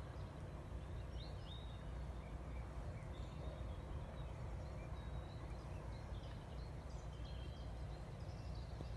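Small birds chirping faintly, short high calls scattered throughout, over a steady low rumble.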